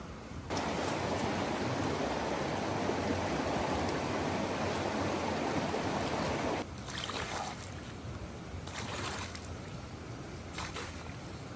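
Rushing river water, an even loud rush that starts and cuts off abruptly; after it, quieter background with a few brief scrapes or rustles.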